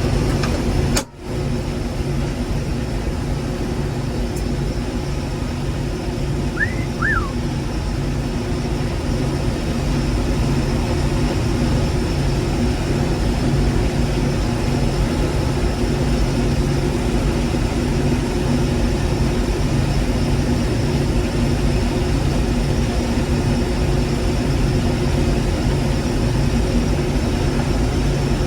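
Case IH 1680 combine running steadily under load while straight-cutting barley with its 30-foot rigid header: a constant engine and machinery hum. The sound drops out briefly about a second in, and two short high chirps come around seven seconds in.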